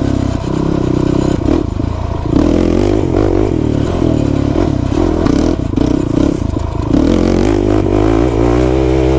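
Quad (ATV) engine running while ridden at low speed, its revs rising and falling unevenly, with some clatter.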